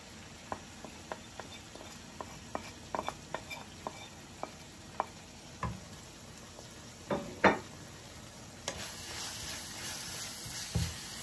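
Minced beef frying in a pan: scattered crackles and a few louder knocks of a wooden spatula against the pan, then a denser sizzle from near the end as the spatula starts stirring the spices into the meat.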